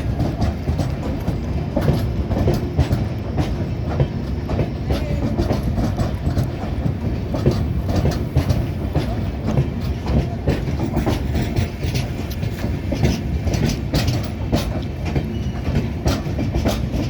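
Express passenger train moving along the track: a steady rumble with the wheels' clickety-clack over the rail joints.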